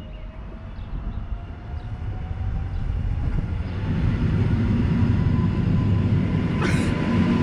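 Blue electric passenger train passing close below. The rumble of its wheels on the rails swells over the first few seconds, a thin whine rises slowly in pitch, and a single sharp crack comes near the end.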